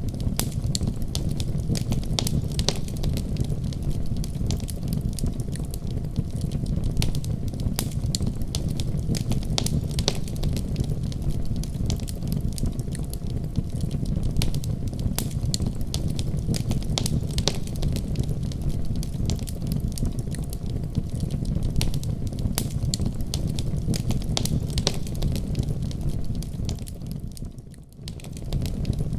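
Wood fire burning in a fireplace: frequent sharp crackles and pops over a steady low rumble of the flames. The sound dips briefly near the end and then comes back.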